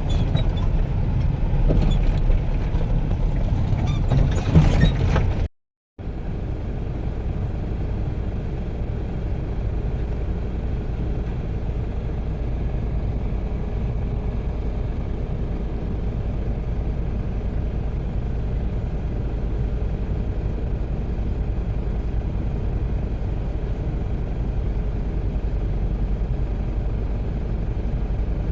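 Heavy machinery engine running with scattered knocks and clanks for the first few seconds. After a brief break, a steady, even low engine rumble continues.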